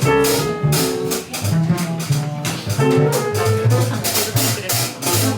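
Live jazz band playing: a moving double-bass line under pitched melody notes, with steady drum and cymbal strokes.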